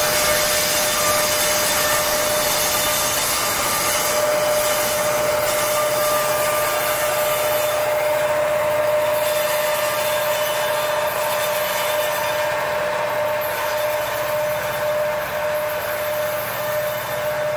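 Freight train with EMD SD70ACU helper locomotives rolling past at close range: steady steel-wheel-on-rail rumble and hiss with a constant high-pitched tone, easing off slightly near the end as the locomotives move away.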